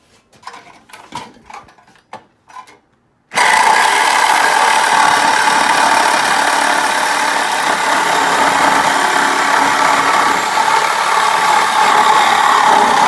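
A few light clicks and knocks of tools, then about three seconds in a loud handheld power tool starts abruptly and runs steadily with a high whine.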